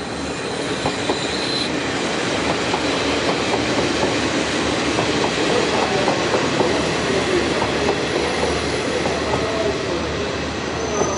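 Diesel railcar train moving along the station track: wheels clicking over rail joints with a wavering wheel squeal, growing louder over the first half.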